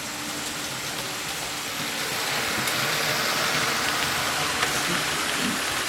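HO-scale model trains running on the layout: a steady rolling rumble and hum of wheels and motors on the track, growing a little louder about two seconds in.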